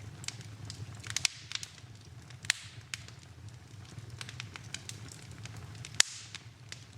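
Wood fire crackling in a fireplace: irregular snaps and pops over a low steady rumble. A few pops bunch together about a second in, and a single sharp, loud pop comes about six seconds in.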